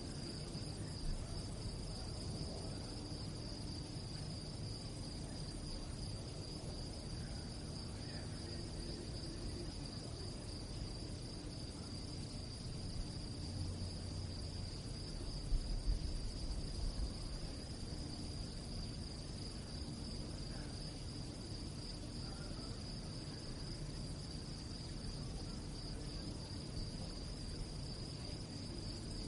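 Crickets chirping at night in a steady, continuous high trill over a constant low background rumble. A brief, louder low rumble swells up about halfway through.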